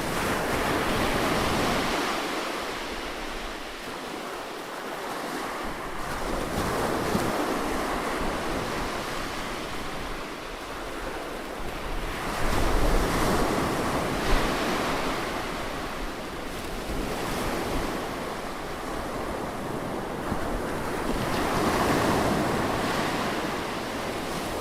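Ocean surf breaking on a beach: a continuous wash of waves that swells and recedes every few seconds, with some wind noise under it.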